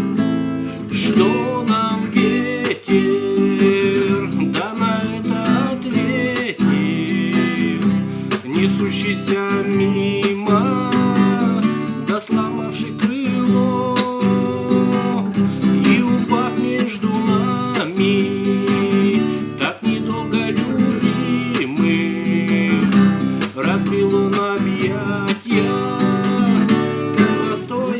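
Acoustic guitar strummed steadily in a song accompaniment, chords ringing with regular strokes.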